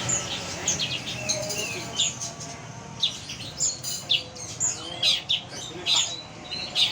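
A songbird singing a busy run of short, sharp, high chirps and whistled notes, several each second.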